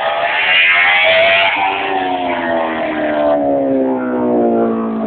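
Racing motorcycle engine running hard, its pitch falling steadily through the second half.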